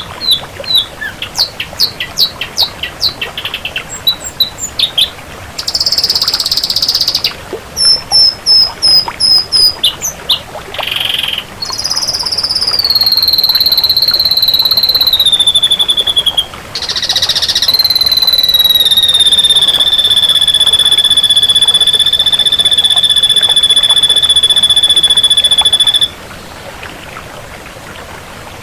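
Ashy drongo singing: a run of quick high chips and short buzzy notes, then long drawn-out whistles that fall slightly in pitch, the last held for about eight seconds before cutting off.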